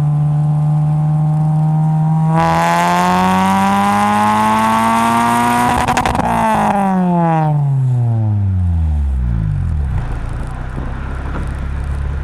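Honda Civic Si's K20 four-cylinder engine running through a Magnaflow cat-back exhaust with a test pipe in place of the catalytic converter. It holds a steady note, then revs smoothly up to a harsher, raspier peak about six seconds in, and falls back down to a low idle.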